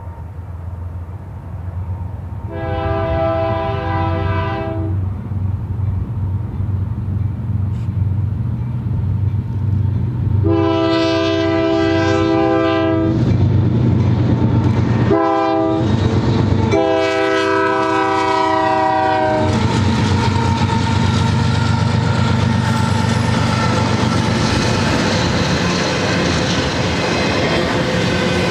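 Union Pacific GE AC4400CW diesel locomotives approaching and passing, engines running under a steady low drone, with the horn sounding long, long, short, long: the grade-crossing signal. From about two-thirds of the way in, the double-stack container cars roll by with a steady rushing clatter of wheels on rail.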